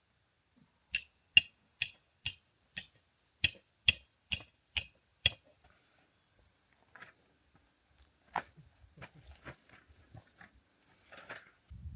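A quick run of about ten sharp knocks, roughly two a second, then a few scattered fainter knocks and clicks.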